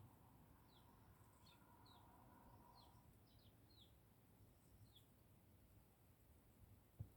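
Faint, scattered chirps of Eurasian tree sparrows, a dozen or so short calls that slide downward in pitch. A brief low thump near the end.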